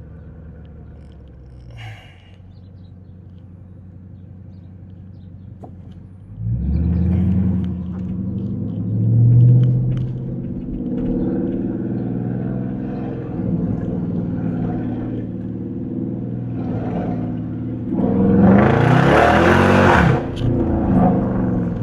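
Dodge R/T's naturally aspirated Hemi V8 with a loud exhaust, heard from inside the car: a low, steady cruise at first, then the engine picks up sharply about six seconds in and pulls under acceleration. About eighteen seconds in comes the loudest, harshest pull, with the engine pitch sweeping, before it settles again.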